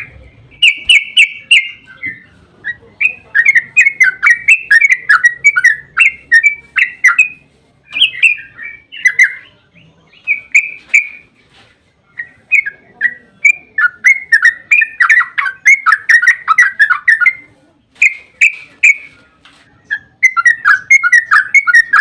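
Yellow-vented bulbul (trucukan) singing long, rapid runs of chattering, bubbling notes, the 'ropel' song. The runs come in phrases of a few seconds broken by short pauses.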